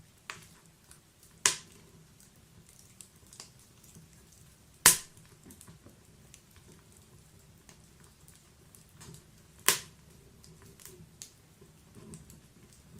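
Wood fire in a log-burning fireplace crackling: three loud sharp pops, about a second and a half in, near five seconds and near ten seconds, with the middle one the loudest, among many smaller ticks over a faint steady background.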